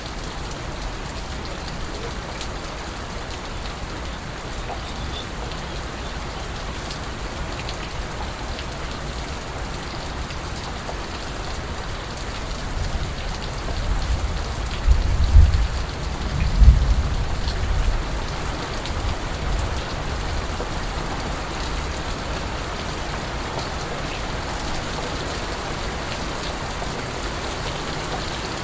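Steady rain falling on surfaces, an even hiss of drops. About halfway through, a deep low rumble swells for a few seconds, peaking twice, then fades back under the rain.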